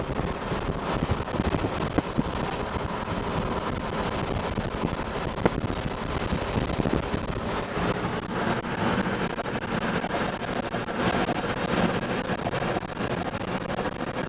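Steady rushing of strong wind around a vehicle, with low engine and road rumble underneath.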